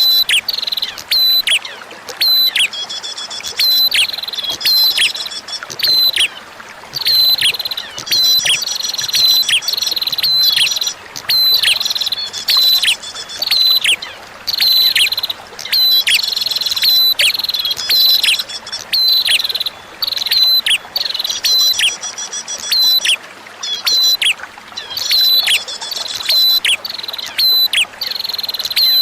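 A prinia (prenjak) sings repeated short, high chirping phrases with quick falling notes and trills, one phrase every second or two. Under the song runs a faint, steady rush of flowing water.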